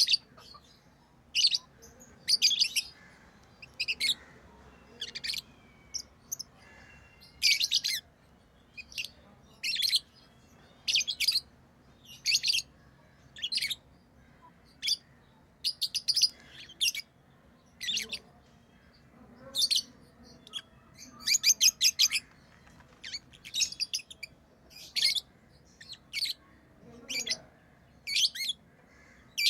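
Pet lovebirds chirping: short, high, shrill chirps about once a second, now and then bunched into quick runs.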